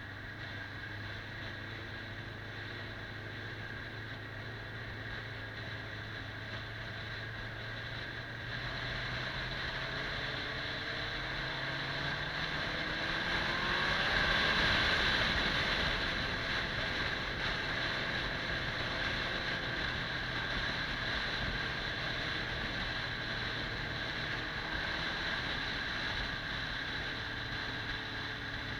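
Kawasaki 400 cc motorcycle engine running under way, with wind rushing over the microphone. The engine note steps up about a third of the way in and is loudest near the middle.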